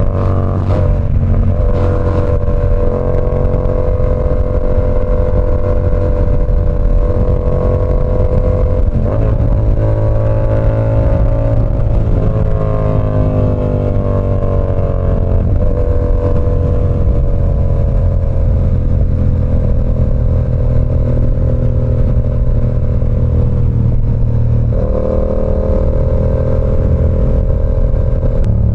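Yamaha R7's 689 cc parallel-twin running through an SC Project CR-T exhaust while riding, loud and steady. The engine pitch holds for stretches and shifts near 1 s, 9 s and 25 s in, dropping gradually between about 12 and 15 seconds.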